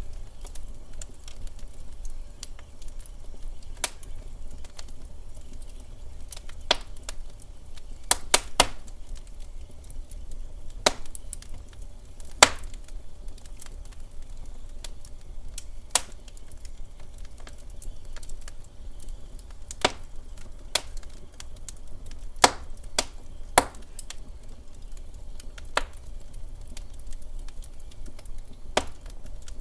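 Wood fire in a fireplace crackling: irregular sharp pops, sometimes a few in quick succession, over a low steady rumble of the burning fire.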